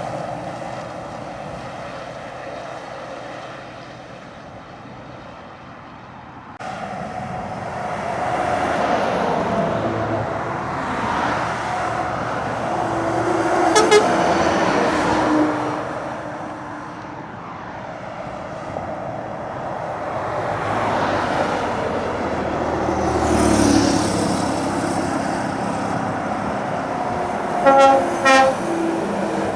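Heavy lorries' diesel engines working hard up a long climb, swelling and fading as one truck after another passes. Two short horn toots come near the end.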